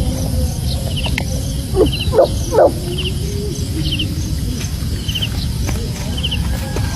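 An animal giving three short calls in quick succession about two seconds in, each rising in pitch. Behind them are a steady low rumble and a faint high triple chirp repeating about once a second.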